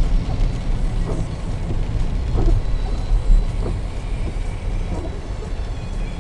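A car's steady low road and engine rumble heard from inside the cabin while driving in the rain, with a soft swish about every second and a quarter from the windscreen wipers.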